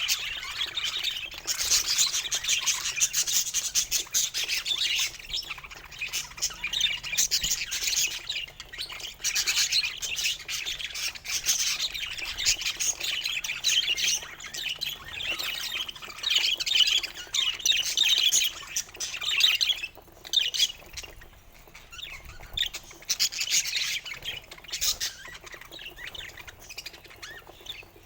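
Budgerigars chirping and chattering in a dense, continuous stream of rapid high chirps, with a short lull about two-thirds of the way through.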